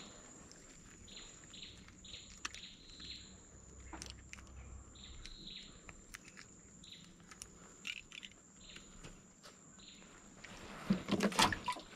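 A bird calling in short high chirps, about a dozen at irregular spacing, over a steady high insect drone. Scattered light clicks and rustles come from gloved hands handling a freshly caught giant freshwater prawn on the line, louder about eleven seconds in.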